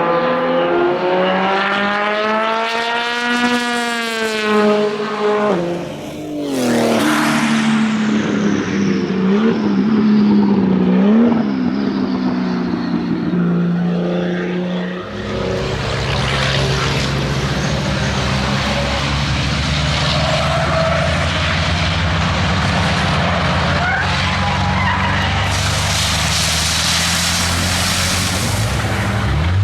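Racing car engines at a circuit. A car revs up through the gears and drops sharply in pitch as it passes about six seconds in, then its lower note carries on. About halfway through, a deeper, rougher engine with a heavy rumble takes over and runs loudly to the end.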